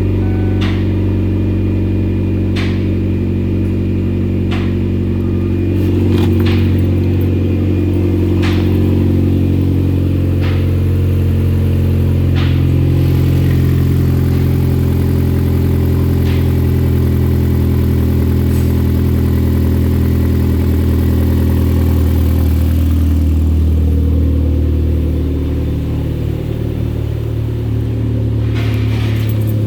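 2009 Chevy Aveo's 1.6 L four-cylinder engine idling steadily, with a sharp tick about every two seconds during the first half.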